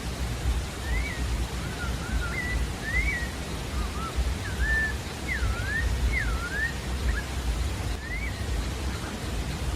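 Pale-breasted thrush (sabiá-da-várzea) singing a phrase of short whistled notes that slide up and down, from about a second in to about seven seconds, with one more note near eight seconds. A steady low rushing noise sits underneath and is the loudest thing throughout.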